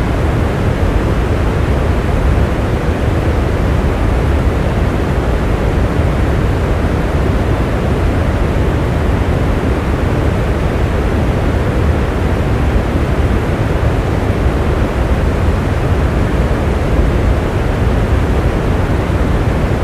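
Steady rain, an even rushing hiss heaviest in the low range, with no separate drops, thunder or changes.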